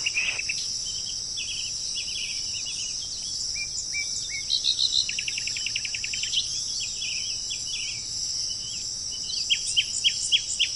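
Steady high-pitched insect drone with many short bird chirps over it. About five seconds in a bird gives a fast trill of about ten notes a second lasting about a second, and near the end a series of quick down-slurred chirps.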